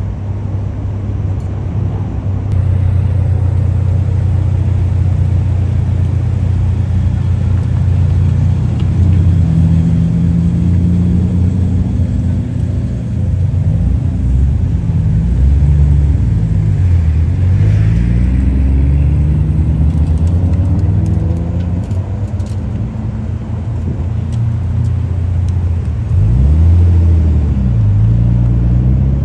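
Car engines running with a deep, steady low note, their revs rising and falling a few times around the middle and again near the end.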